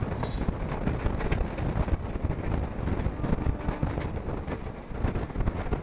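Passenger express train running across a long river bridge: a steady rumble from the wheels and track, with rapid, irregular clattering throughout.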